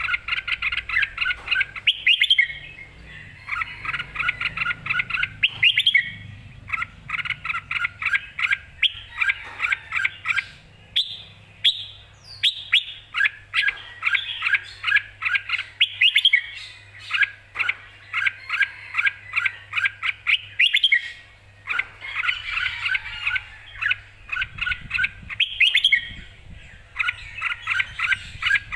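Red-whiskered bulbul singing in lively, fighting form: rapid runs of bright chirping notes in phrases about two seconds long, repeated with short breaks.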